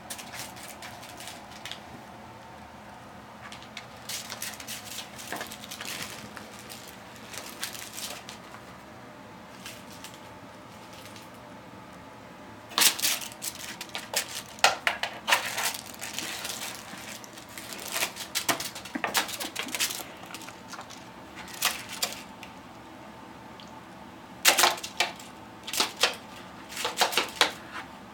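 A cat scrabbling and clawing in a cardboard box: short scratches and crackles of cardboard in irregular bursts, busiest in the second half.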